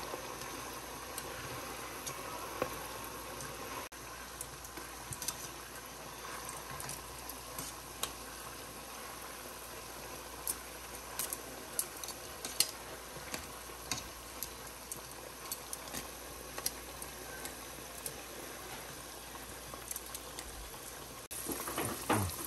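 Chicken frying in hot oil: a steady sizzle with scattered sharp pops and crackles.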